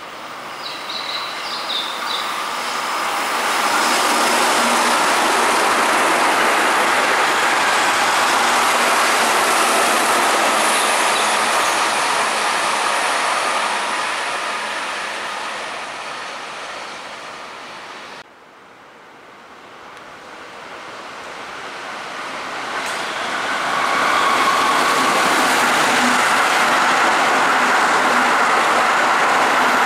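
A Keihan 8000-series limited express train runs through the station, its wheels and motors rising to a loud, steady rush and then fading away. After a sudden cut, a Keihan 13000-series electric train comes up and runs past, loud for the last several seconds.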